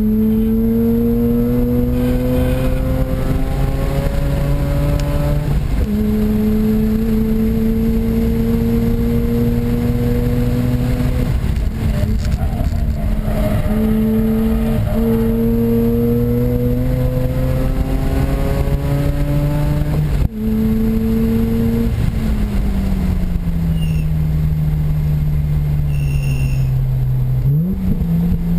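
Mazda RX-8's two-rotor rotary engine, fitted with an aftermarket intake and header-back exhaust, pulling hard under full throttle: its pitch climbs steadily and drops sharply at several upshifts. From about three-quarters of the way in the revs fall steadily off-throttle, and a quick rev blip follows near the end.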